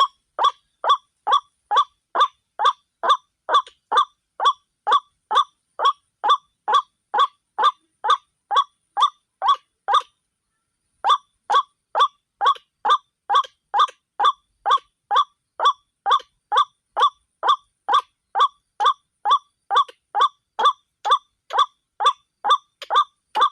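White-breasted waterhen calling: a monotonous series of short, even, honking 'kru-ak' notes at about two a second, broken once by a pause of about a second near the middle.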